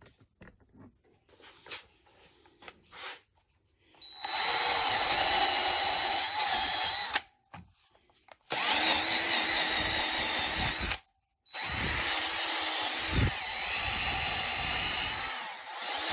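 Handheld electric drill running in three bursts of a few seconds each, with brief pauses between, working on the air-suspension compressor's housing. Faint handling clicks come before the first burst.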